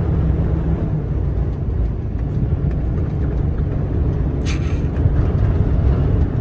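Loaded truck's engine and road noise, a steady low rumble heard from inside the cab, with a short hiss about four and a half seconds in.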